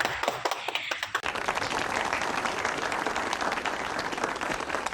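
A round of applause: many hands clapping.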